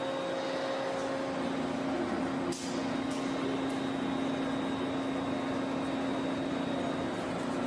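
A machine running steadily with a constant hum and whir, with one short click about two and a half seconds in.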